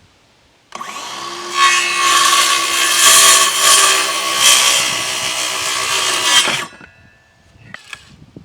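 Electric power saw cutting a wooden board: the motor starts under a second in, the sound gets louder as the blade bites into the wood about a second later, and it stops after about five seconds of cutting.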